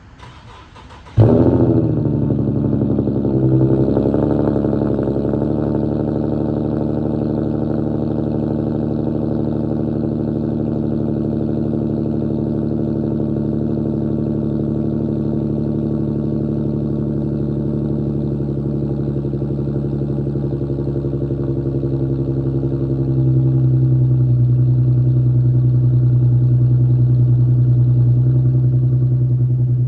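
Cold start of an Infiniti Q50's 3.7 L VQ37VHR V6 with a muffler-delete exhaust: the starter cranks for about a second, the engine catches with a short flare, then settles into a steady cold idle. About 23 s in the low exhaust drone grows louder.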